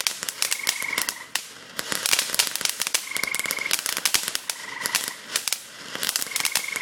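Fountain firework crackling with rapid, irregular pops. Four short trills from a calling frog come through about every second and a half.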